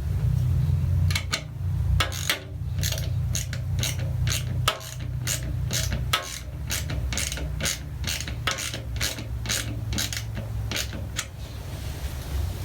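Ratchet wrench clicking in a steady run of short strokes, about two or three clicks a second, over a steady low hum.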